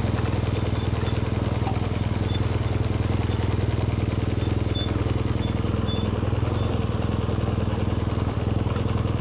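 BMW R1200GS boxer-twin motorcycle engine running at steady low revs, an even, unbroken rumble with no revving.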